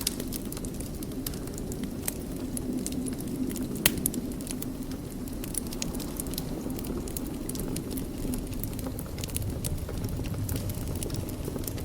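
Wood fire burning in a fireplace: a steady low rumble of flames with frequent small crackles and pops, one sharper pop about four seconds in.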